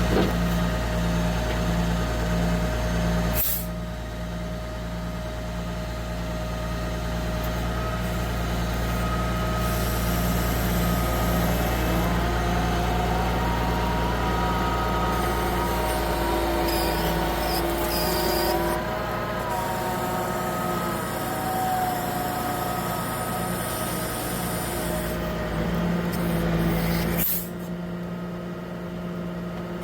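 Self-loading log truck's engine running steadily, with a pitched whine that rises and falls for a few seconds midway. There is a short sharp noise at about three and a half seconds and another near the end.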